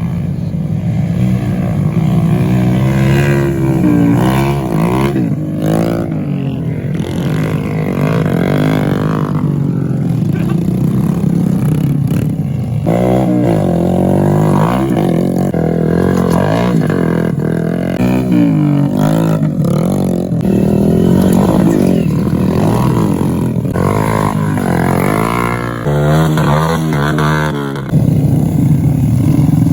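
Motorcycle engines of grain-hauling ojek bikes revving hard while chasing each other, their pitch rising and falling again and again. The sound gets louder just before the end.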